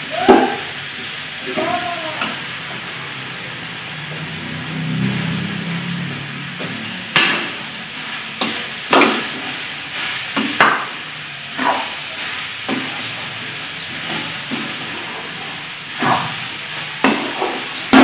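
Spiced cauliflower filling frying in a kadhai with a steady sizzle while it is stirred and cooked dry, a spatula knocking and scraping against the pan at irregular moments, more often in the second half.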